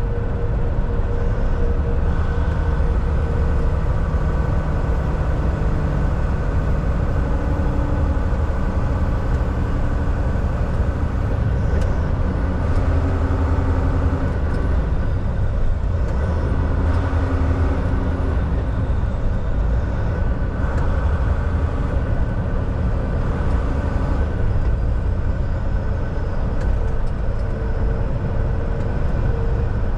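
Volvo VNL 760 semi truck cruising on the highway, heard from inside the cab: a steady diesel engine drone with a low rumble and road noise, holding even throughout.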